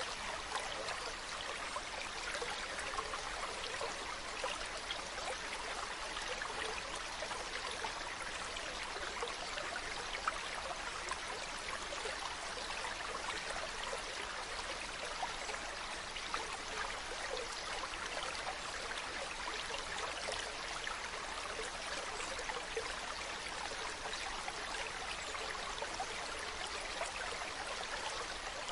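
Mountain stream running water: a steady, even babble with small splashes throughout.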